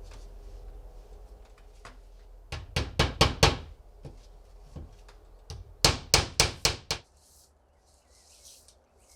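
Hammer blows on wood in two quick runs, about five strikes and then six, at roughly four or five a second.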